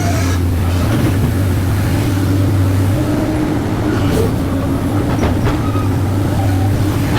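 Sany excavator's diesel engine running steadily with a deep drone, with a few faint short squeaks and clicks on top.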